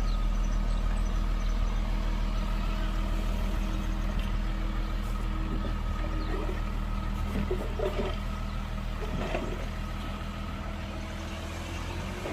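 Heavy diesel engine of earthmoving machinery running steadily with a low hum, gradually getting quieter, with a few short clanks and rattles about two-thirds of the way through.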